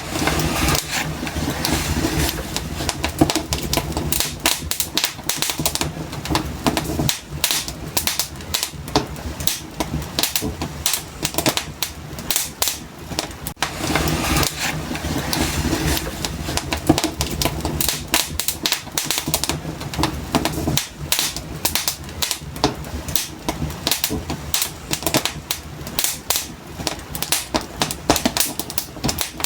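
Wood fire burning in a fireplace, crackling and popping irregularly and continuously over a low steady rumble.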